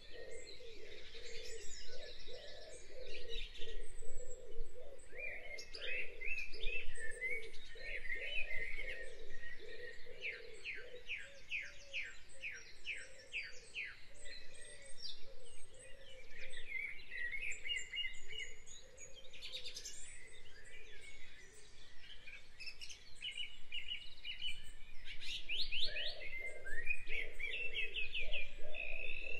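Birds singing: several birds chirping and trilling over one another, including runs of quick repeated notes, with a lower pulsing sound underneath.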